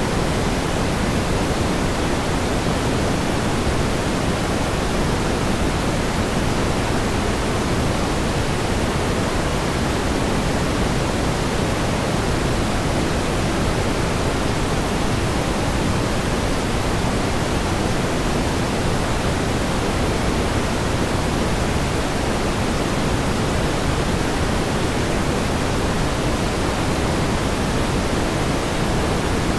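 Steady pink noise: an even, unbroken hiss weighted toward the low end, with no changes or events.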